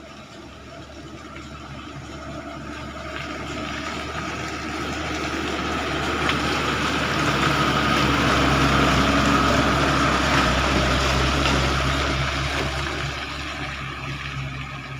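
Diesel truck engine pulling up a slippery muddy slope. It grows louder as the truck comes close, is loudest a little past the middle, then fades as it moves on.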